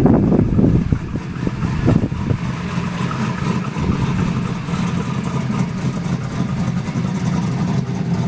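Pontiac Trans Am's 5.7-litre LS1 V8 running. It has a TSP 233/239 cam on a 112 lobe separation angle, long-tube headers, and a Borla exhaust fitted with a 3/4-inch hole plate. It is louder and uneven for about the first second, then settles into a steady idle.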